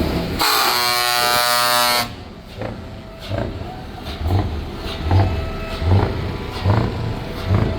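Truck air horn sounding for about a second and a half, a steady chord-like blast, then cutting off. After it come low thumps repeating about every 0.8 seconds.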